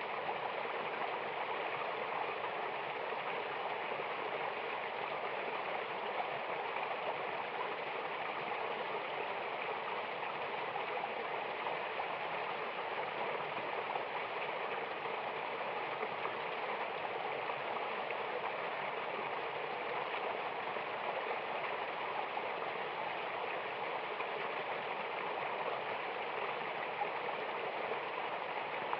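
Steady rush of water from a mountain waterfall, an even hiss and splash that does not change.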